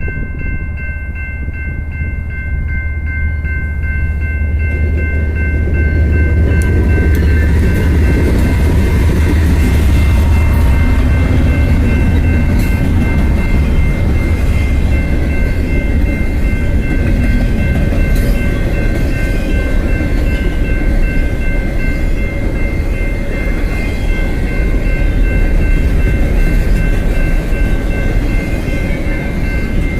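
BNSF diesel freight train passing close by: heavy low rumble of the locomotives building over the first several seconds, then the cars rolling by with clicking wheels on the rails. A steady high-pitched ringing tone runs throughout.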